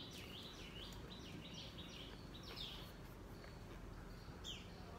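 A bird calling over and over: short, high chirps that each drop in pitch, about two or three a second, with a gap near the middle, over faint steady background noise.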